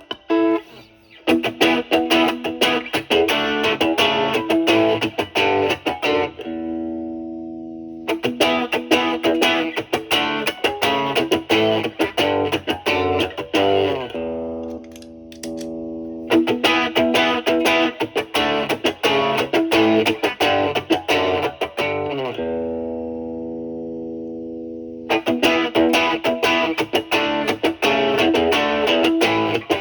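Electric guitar (Stratocaster) through a light overdrive pedal into a clean amp, with the guitar's volume knob rolled back to test how the overdrive cleans up. It plays bluesy runs of picked notes, three times pausing on a chord that is left to ring for a couple of seconds.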